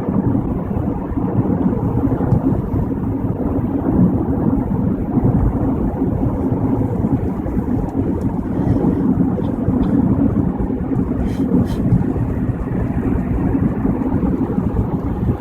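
Steady low rumble of road and tyre noise inside a car cruising at freeway speed on a wet highway.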